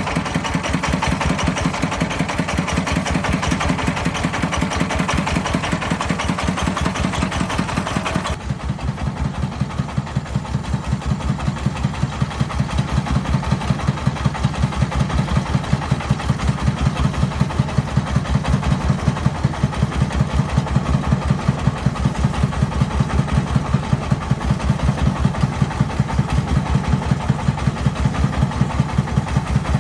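Agricultural vehicle's engine running with a steady, even chugging beat. About eight seconds in the sound changes abruptly: the higher rattle drops away, and the beat stands out more distinctly at about two to three pulses a second.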